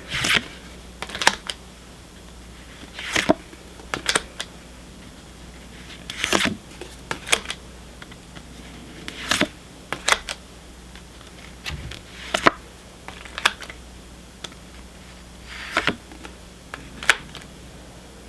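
Pokémon trading cards being handled and flipped through one at a time, a short snap or swish every second or so.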